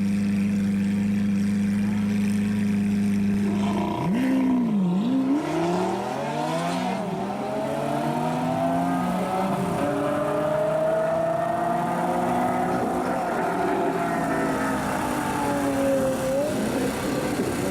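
Sports car engine idling steadily, then revving up about four seconds in and accelerating. The pitch dips and climbs a few times, then holds a long note that rises slowly and eases back down near the end.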